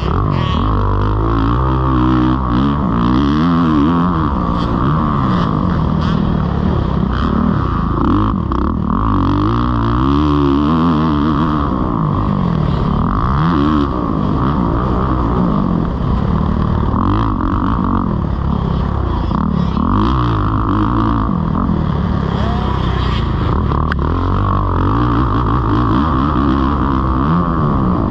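Kawasaki KX450 motocross bike's single-cylinder four-stroke engine being ridden hard, its pitch rising and falling over and over as the throttle is opened and shut and gears change around the track.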